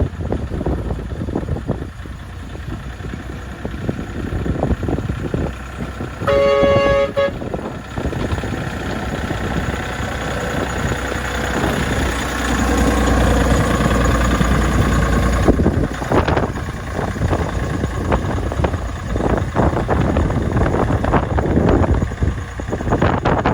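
Miniature railway train running with a steady rumble and irregular clattering. Its horn sounds once for about a second, about six seconds in. The rumble grows louder through the middle and drops off suddenly about two-thirds of the way through.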